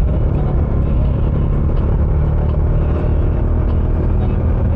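Bajaj Dominar 400's single-cylinder engine running through its stock exhaust at a steady cruise: an even, low rumble.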